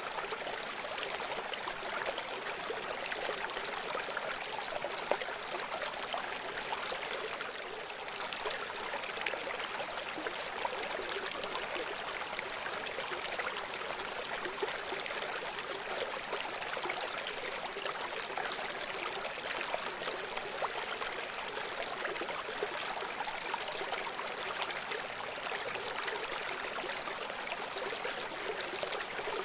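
Running stream: water steadily babbling and trickling over stones, a continuous even rush with fine splashing detail.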